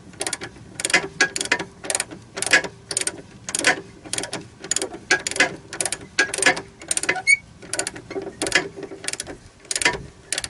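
Hand ratchet wrench clicking in short, repeated bursts as bolts are tightened on the joint of a snow groomer's rubber crawler track.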